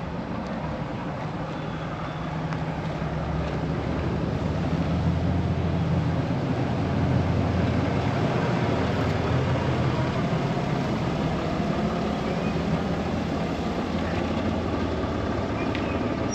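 A motor vehicle's engine running nearby: a steady low hum that grows louder over the first few seconds, then holds.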